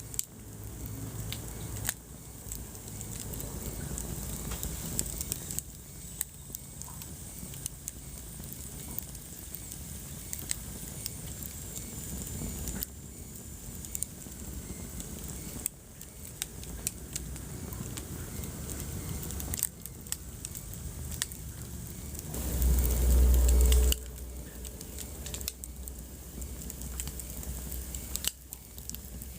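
Wood fire burning in a fireplace: steady crackling with frequent sharp pops over a low rumble of flames. A louder low rumble swells for about a second and a half near the end.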